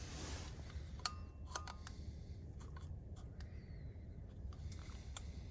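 Faint scattered clicks and taps of a digital angle gauge being handled and set in place, twice followed by a short high beep, over a low steady hum.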